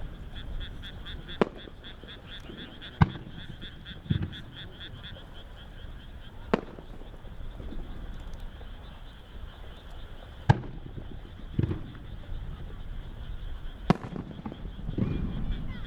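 Single aerial firework shells bursting every few seconds: sharp cracks and duller booms. Underneath, a steady chorus of frogs croaks in quick pulses.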